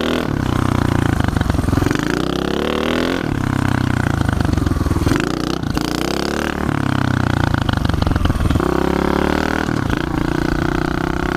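Pit bike engine being ridden hard, revving up and dropping back about four times as the throttle is opened and closed.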